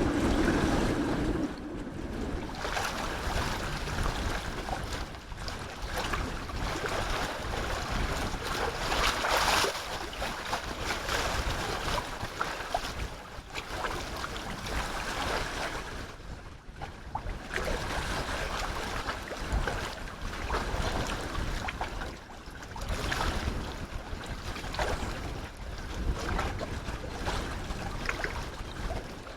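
Strong gusty wind buffeting the microphone, rising and falling every few seconds over the wash of sea water.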